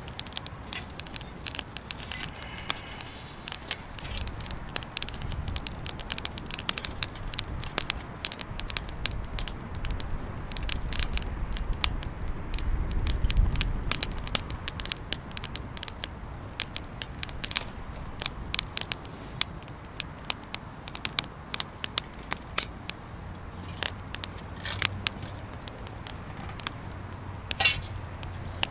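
Wood bonfire crackling, with many irregular sharp pops and snaps.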